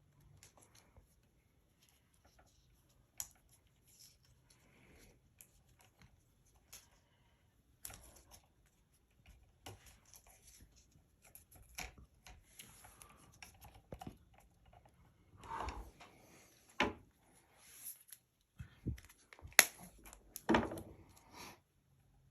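Scattered light clicks, taps and rustles of hands handling wiring and small tools, growing busier in the second half, with a few sharper knocks near the end.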